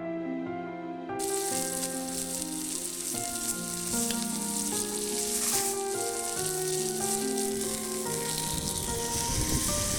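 Steak sizzling on a hot forged iron plate: a loud, even frying hiss that starts suddenly about a second in, over background music.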